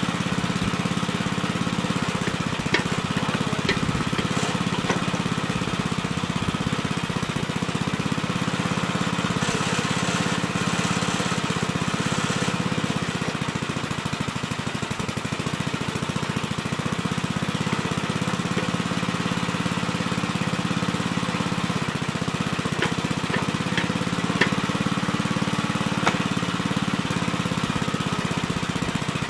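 Gravely Terramite backhoe's engine running steadily at a constant speed, with a few sharp clicks and knocks, and a brief hiss about a third of the way through.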